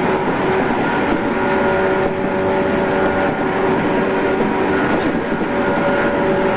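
Inside a JR East 113 series electric train running between stations: a steady rumble of wheels and rails with a continuous whine of steady tones from the running gear.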